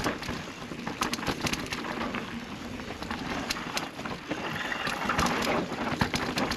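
Mountain bike rolling over a dirt trail: steady tyre and wind noise with frequent clicks and rattles from the bike.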